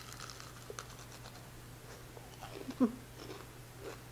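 A person chewing a crunchy fried pickle chip: soft, scattered crunches, with a short hum that falls in pitch about three seconds in.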